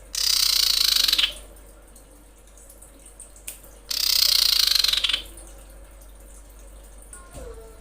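Female common iora giving two harsh, hissing calls, each a little over a second long and about four seconds apart, the kind of call used to lure males.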